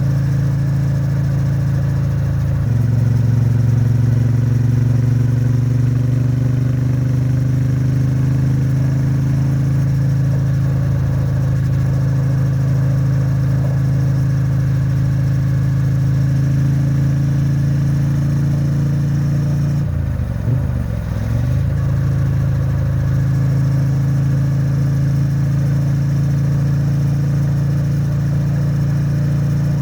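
Triumph Bonneville T100's 900 cc parallel-twin engine and exhaust running under load at expressway speed, its note rising gradually over the first several seconds and then holding steady. About twenty seconds in the engine speed dips briefly and comes back.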